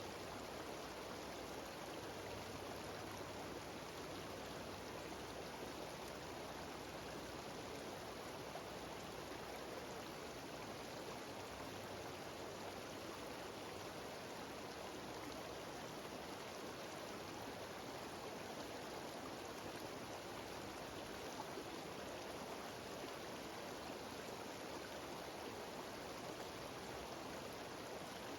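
Mountain waterfall and stream cascading over rocks, a steady, even sound of running water.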